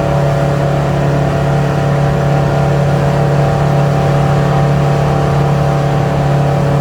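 A 25-foot cabin cruiser's engine running at a steady speed underway, a constant even hum that holds without change.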